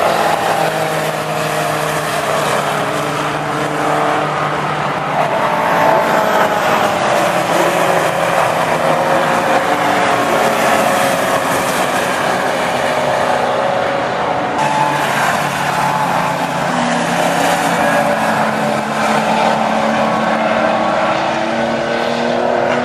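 Several Group A and Group C touring cars running together, their engines rising and falling in pitch as they pass, with a steady rush of noise underneath.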